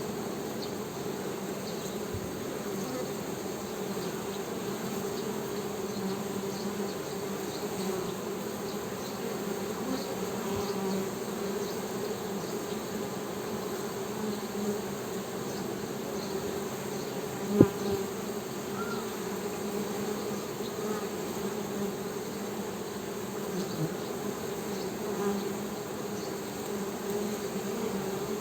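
Honey bees humming: a steady low drone, with one sharp click about two-thirds of the way through.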